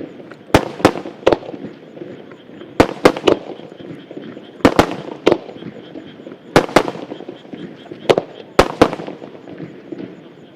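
Aerial firework shells bursting in a star mine barrage: loud sharp bangs in clusters of two or three, about every two seconds, each with a short echo.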